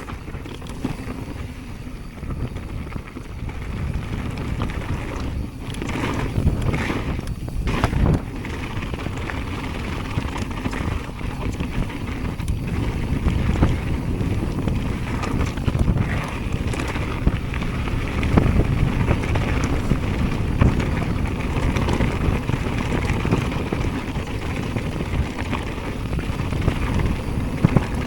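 Wind rushing over the microphone with the low rumble of a Jamis Hardline enduro mountain bike riding a dirt bike-park trail, tyres rolling on dirt and the bike clattering over bumps.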